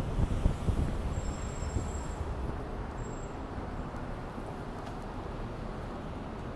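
Outdoor city background noise: a steady low rumble of traffic, with wind buffeting the microphone in the first second or so before it settles.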